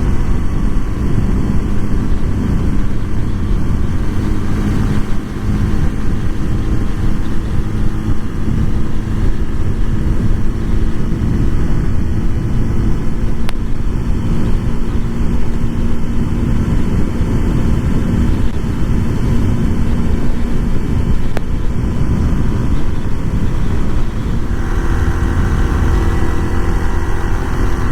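Honda Super Cub 125's small single-cylinder four-stroke engine and exhaust running steadily, with a change in its note about three-quarters of the way through.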